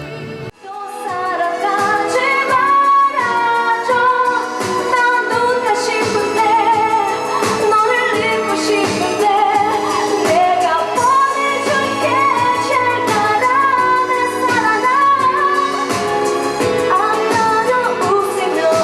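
K-pop song, a voice singing over a pop backing with a steady beat, starting about half a second in.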